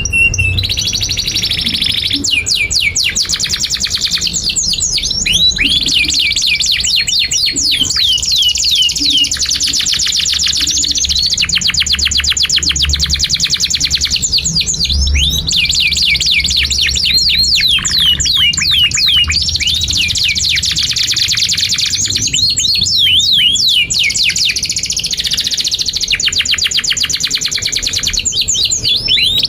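Domestic canary singing a long, unbroken song: fast trills of repeated high notes alternating with quick falling whistles.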